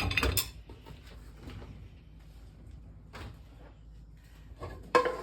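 Kitchen clatter of cookware: a loud clatter at the start, a light knock about three seconds in, and a sharp clank near the end that rings briefly, over a low steady hum.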